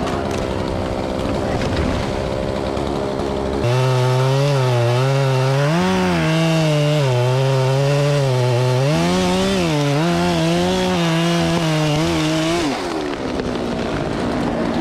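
Chainsaw running hard, its pitch repeatedly dipping and recovering as it cuts. It starts abruptly a few seconds in and falls away shortly before the end. Before and after it there is a rougher, steady machine noise.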